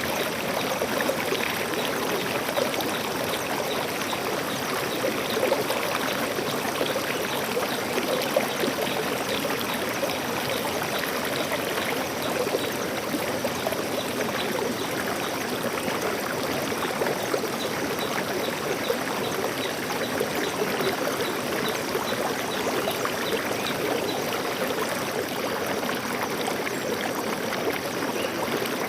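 Stream water flowing steadily, an even rushing and splashing with no breaks.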